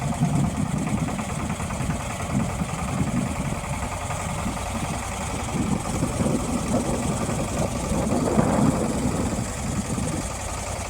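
Motor of a tourist boat on the river running steadily with a low rumble, briefly louder about eight seconds in.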